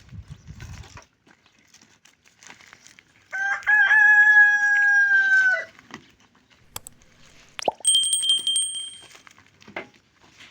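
A rooster crows once, about three seconds in, a single drawn-out call of about two seconds that drops off at its end. Near the end comes a shorter, thin high-pitched call, with a few faint clicks around it.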